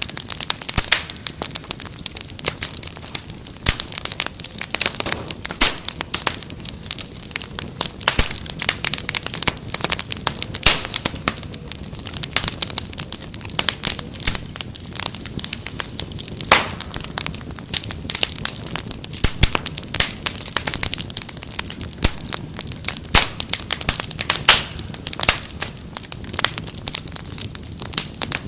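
Wood fire crackling, with frequent irregular sharp pops and snaps over a low, steady rush of flame.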